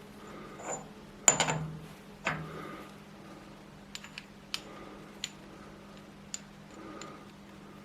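Metal parts or tools being handled: two clattering knocks close together, then a run of light, sharp ticks and clicks, over a steady low hum.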